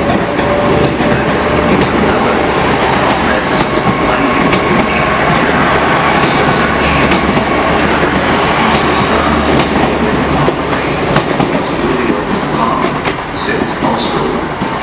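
A train moving along the platform at close range, wheels clattering over rail joints, with a faint high wheel squeal.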